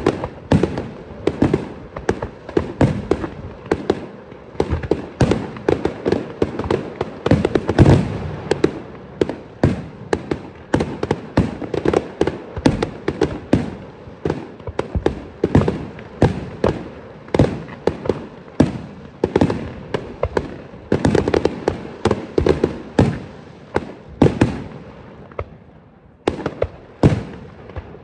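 Aerial firework shells bursting in a dense barrage, sharp bangs and crackles coming several times a second, with a short lull near the end before the bangs resume.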